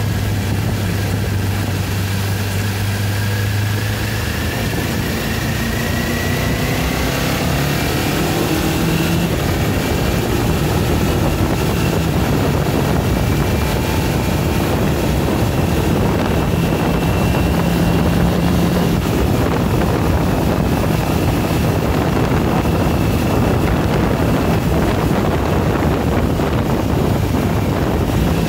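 Kawasaki Ninja 400's parallel-twin engine pulling up through the gears, its pitch rising in steps during the first several seconds. It then holds steady in fifth gear at around 4,500 rpm and about 70 km/h. Wind rushes over the microphone.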